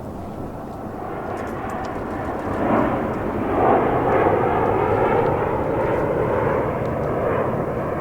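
Jet airliner on approach to land, passing close: its engine noise swells to a peak a few seconds in, then slowly fades.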